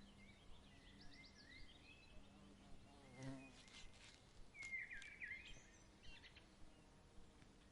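Faint birds chirping and trilling in short rising and falling phrases over a quiet outdoor background, with a few light clicks and a brief low call about three seconds in.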